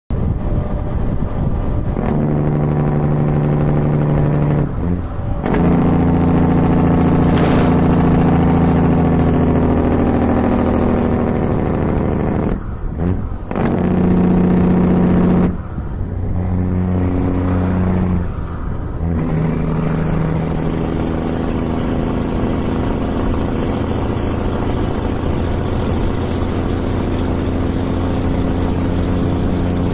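Heavy truck's Jake Brake (compression engine brake) firing, a loud buzzing drone that holds one pitch for a few seconds, breaks off briefly, and comes back at a different pitch several times.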